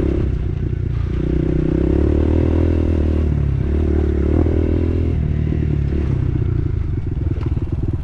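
Dirt bike engine running under changing throttle, its pitch rising and falling several times as the rider rides through sand. After about five seconds it drops to a lower, choppier beat.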